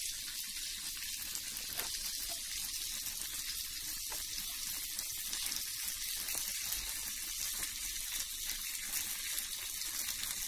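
Thin potato slices frying in butter in a pan, a steady high sizzle with light crackling.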